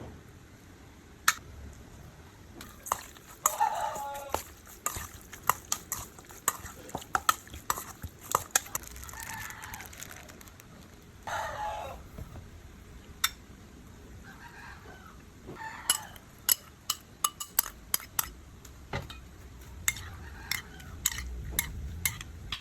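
Domestic chickens calling several times, the two clearest calls bending down in pitch. Irregular sharp clicks and knocks of kitchen utensils run throughout.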